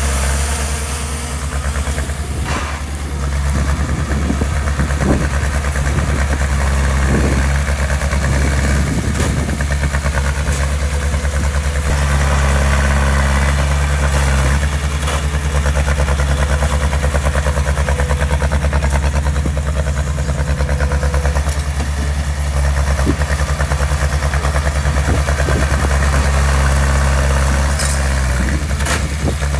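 Heavy-equipment diesel engine running steadily at a low, even pitch, with a few scattered knocks or clanks over it.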